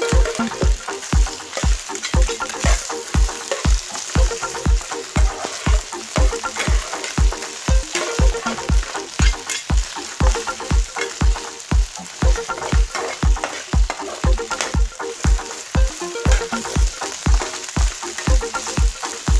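Chicken feet sizzling in hot oil in a pan as they are stir-fried and tossed with a metal spatula and ladle. A steady rhythm of low thumps runs along with it, a little over two a second.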